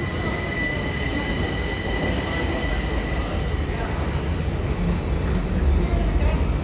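Stockholm Metro train running with a low rumble and a steady high-pitched whine that fades out about halfway through.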